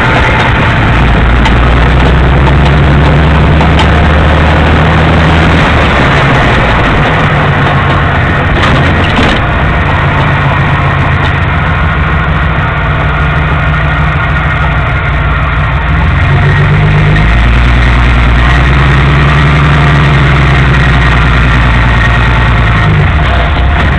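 1965 Jeep CJ-5 being driven, its engine running with a low note that drops about six seconds in and changes again about sixteen seconds in. A couple of sharp knocks sound about nine seconds in.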